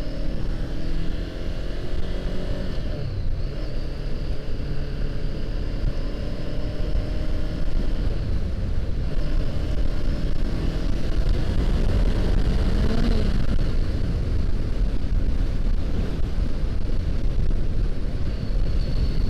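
Honda CBR500R parallel-twin engine running on the road, under a heavy low rumble of wind. Its pitch falls in the first few seconds as the engine slows, and it rises and falls briefly about 13 seconds in.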